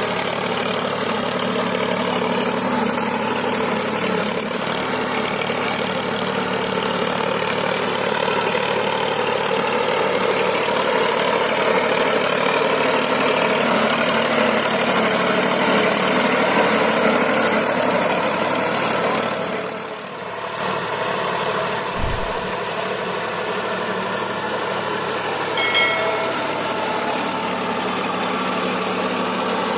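Solis 5015 tractor's diesel engine running steadily, with a short dip in level about two-thirds through. A brief low thump follows, and a short high-pitched tone sounds near the end.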